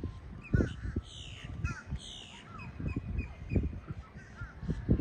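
Crow calling: two harsh downward-sliding caws about a second apart, with a few shorter chirps, over uneven low thuds.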